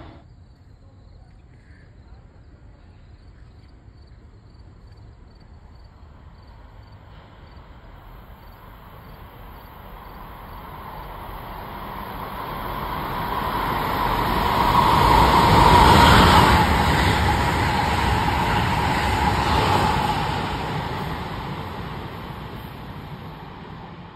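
Amtrak Acela high-speed train passing through a station at speed without stopping. The rush builds slowly as it approaches, peaks with a steady whine about two-thirds of the way in, then fades as it runs away.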